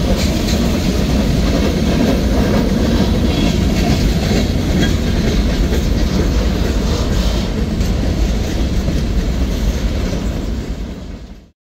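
Mixed freight train rolling past, empty centerbeam flatcars and then tank cars: steel wheels clacking over the rail joints over a steady rumble. The sound fades briefly near the end and then cuts off suddenly.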